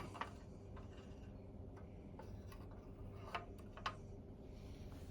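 A few light clicks and taps as the lit burner is slid into place under the boiler of a Mamod SE1 toy steam engine, over a faint steady room hum.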